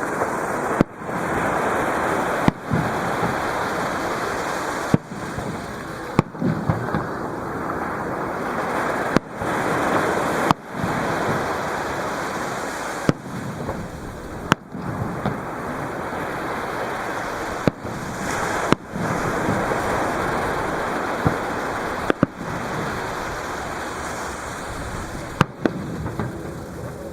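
Fireworks shells bursting overhead, about a dozen sharp booms at irregular intervals of one to three seconds, over a continuous rush of surf breaking at the shoreline.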